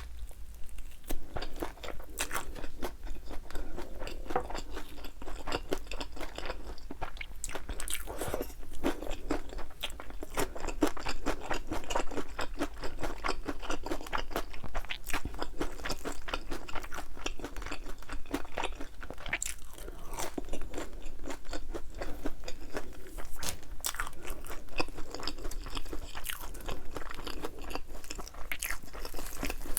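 Crunching and chewing of crispy, thin-battered fried chicken wings: a fast, uneven run of crackly bites and chews.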